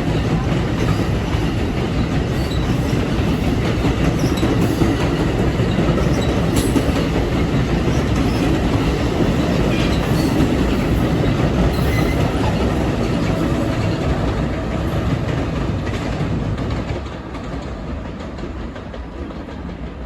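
A train passing close by, its wheels rumbling on the rails with occasional clicks over the track joints. The noise drops off noticeably about three-quarters of the way through.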